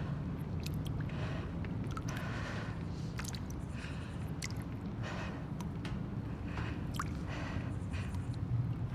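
Abandoned-building ambience: a steady low rumble with scattered small clicks and short rustling, creaking noises throughout.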